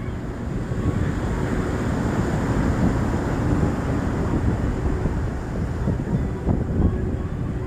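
Wind buffeting the microphone in a steady gusty rumble, over the wash of sea waves on the shore.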